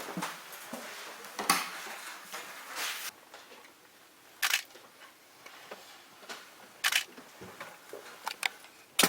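Several short, sharp clicks, a few seconds apart, over quiet room tone.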